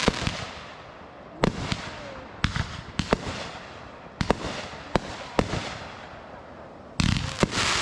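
Consumer fireworks going off: sharp bangs at irregular intervals, each with a trailing echo, then a louder dense crackling burst near the end.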